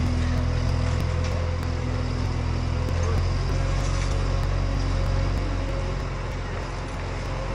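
An engine running steadily at a constant speed, a low, even hum with a faint higher whine over it.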